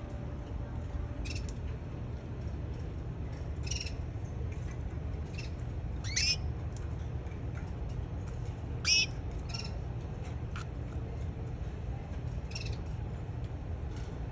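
Canary giving short, separate chirps and call notes every second or two rather than a continuous song, the loudest about six and nine seconds in, over a steady low rumble.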